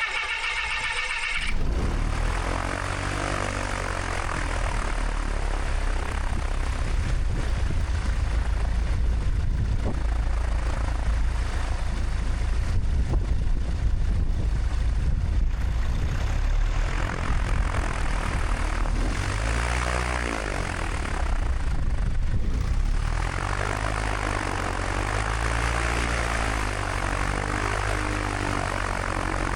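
Light single-engine propeller airplane's piston engine running steadily at low power, with propeller noise. A brief high-pitched tone sounds in the first second or so.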